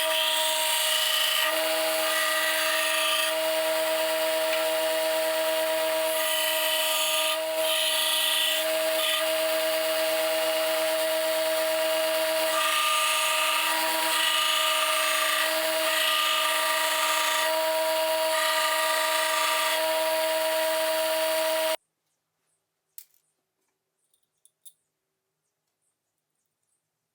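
A power tool running steadily: a motor whine of several steady pitches under a loud, even hiss of metalworking. It cuts off abruptly about three quarters of the way through, leaving near silence with a few faint clicks.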